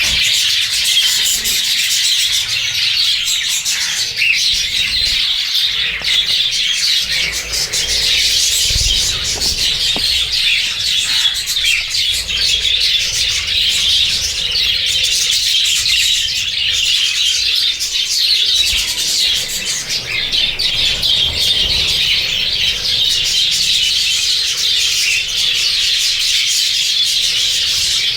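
A large flock of budgerigars chattering and chirping all at once, a dense, unbroken chorus of many overlapping short calls.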